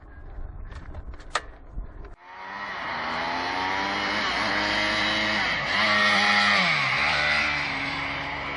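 A few light clicks, then about two seconds in a dirt bike's engine comes in loud, running under load. Its pitch rises and falls with the throttle and drops steeply around two-thirds of the way through.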